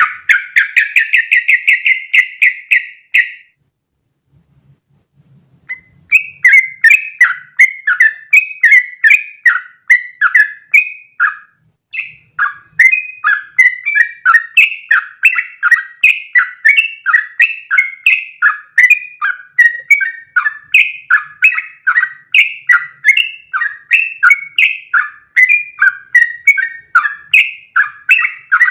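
Yellow-vented bulbul (trucukan) singing its long unbroken 'ropel' song. It opens with a fast trill of about three seconds and, after a short pause, goes into a long run of quick, bubbling, falling notes that continues to the end.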